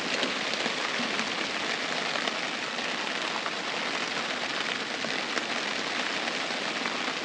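Heavy rain thundering down on the fabric roof of an air tent: a steady dense hiss dotted with faint drop ticks.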